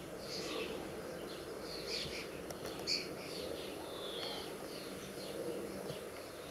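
Small birds chirping in short, scattered calls, one louder chirp about three seconds in, over a low steady rumble.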